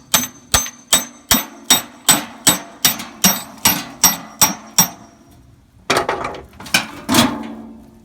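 Steady hammer blows on the steel rod of a blade/wheel puller, about thirteen sharp metallic strikes at roughly two and a half a second, driving a rusted motor shaft out of a blower wheel. The strikes stop about five seconds in. About a second later comes a couple of seconds of looser metal clanking and rattling.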